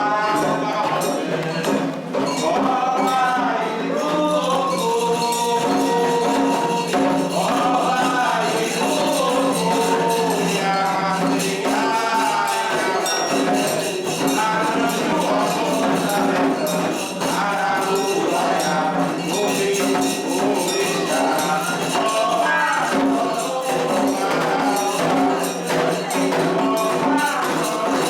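Candomblé ritual music for Xangô: steady hand-drum and jingling percussion under group singing of the chants, running without a break.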